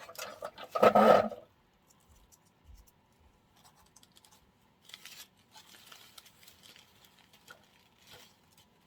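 Artificial flower stems and decorative springs being handled and woven into a floral arrangement: light rustling, scratching and small clicks, with a louder rustle about a second in.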